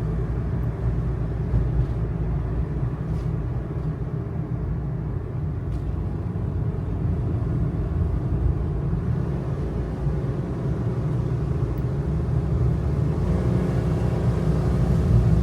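Kei truck's small 660 cc engine and road rumble heard from inside the cab on a mountain road. Near the end the engine note comes up louder and clearer as it takes more revs.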